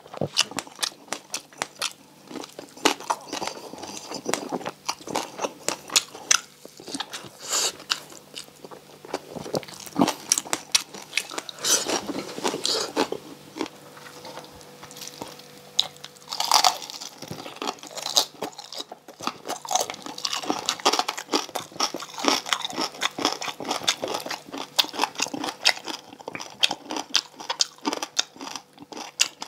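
Close-up chewing and biting of crispy deep-fried pork belly (bagnet), the crackling skin giving sharp, irregular crunches again and again.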